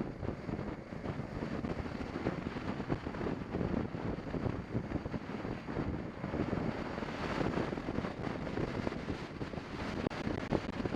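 Wind buffeting the microphone of a BMW 650 GS motorcycle on the move, a rough, gusting rush with the ride's road and engine noise blended underneath.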